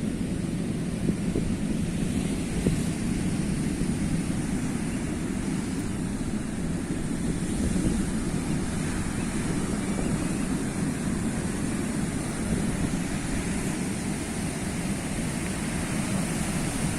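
Sea waves washing on the shore: a steady low rush of surf without distinct single crashes.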